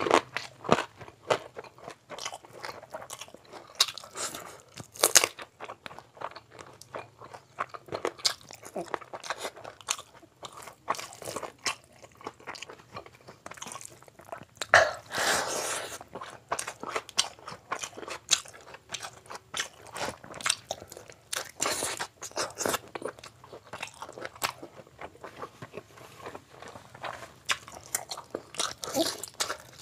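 A person chewing and biting mouthfuls of chicken and mutton biryani eaten by hand: irregular wet chewing smacks and crunchy bites, with a louder bite about halfway through.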